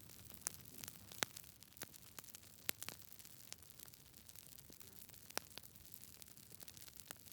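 Wood fire burning in a fireplace: a soft hiss with irregular sharp crackles and pops, a few louder pops standing out.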